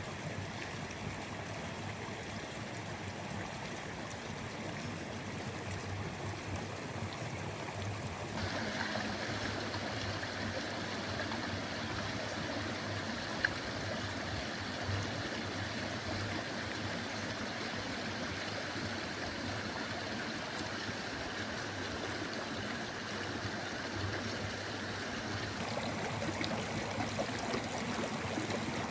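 River water flowing: a steady rush, brighter from about eight seconds in, with one sharp click about halfway through.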